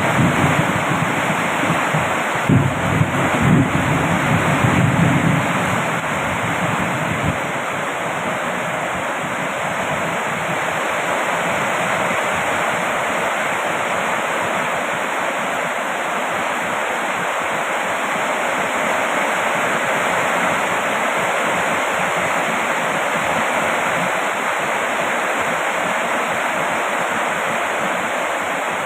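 Heavy rain falling, a steady even hiss. For the first five or six seconds, gusts of wind buffet the microphone with a low rumble, then die away.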